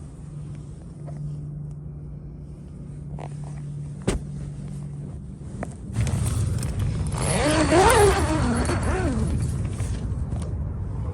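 A motor vehicle passing by, building from about six seconds in, loudest near eight seconds and then fading, with its pitch rising and falling as it goes past. A single sharp click about four seconds in.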